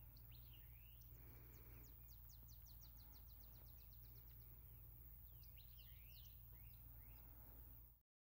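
Faint outdoor birdsong. One bird gives a rapid trill of about twenty quick notes, about seven a second, while other birds chirp with short sweeping calls before and after it, over a low steady hum. It all cuts off just before the end.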